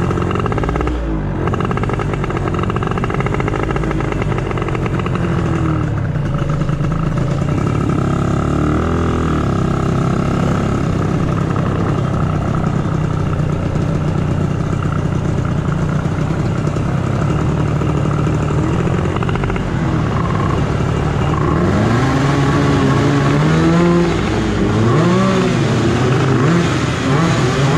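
Motorcycle engine running under way: a steady engine note that rises and falls in pitch as it revs, with repeated rev-ups and drops in the last several seconds.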